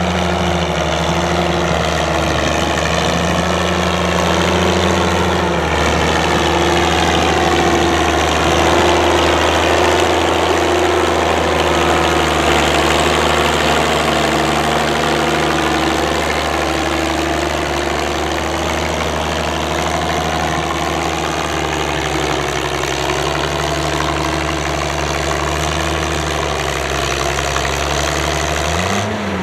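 Antique farm tractor engine running steadily, with one even engine note and a brief rise in pitch just before the end.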